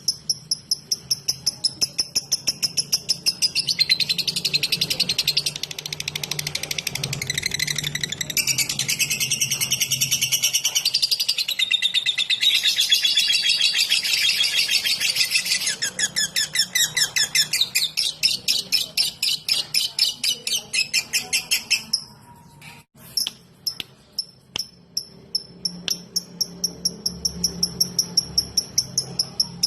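A lovebird 'ngetik': a fast, even run of short high ticking chirps, thickening into denser chatter for several seconds in the middle, breaking off briefly near the end before the ticking resumes.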